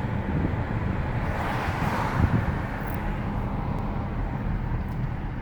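Car driving along: a steady low hum of engine and road noise, with a swell of rushing noise about two seconds in.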